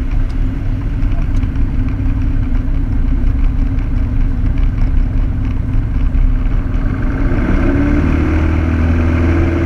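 Piper Cherokee's piston engine and propeller droning steadily in flight. About three-quarters of the way through, the engine note rises and gets fuller.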